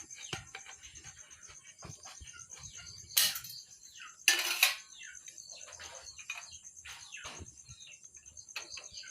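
Light metal clinks and taps from hand work on exhaust parts, with two short, loud hissing bursts about three and four seconds in. A faint, steady high-pitched pulsing sounds under it all.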